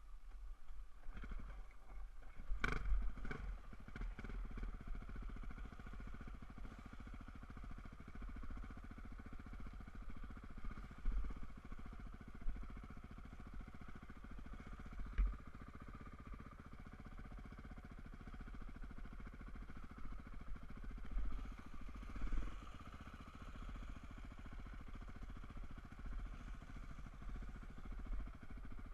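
Enduro dirt bike engine running steadily while riding, with a few sharp knocks, the loudest cluster about three seconds in.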